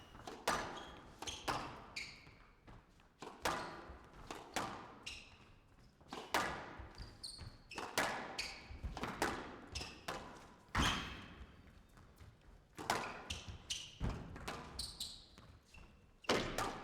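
Squash rally: a squash ball struck by rackets and slapping off the court walls about once a second, with shoes squeaking on the court floor between the shots, echoing in a large hall.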